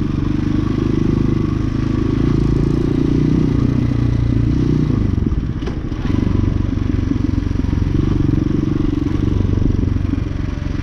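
Hawk 250 dual-sport motorcycle's single-cylinder engine running under way. The note dips briefly about halfway through, then picks up and runs steadily again.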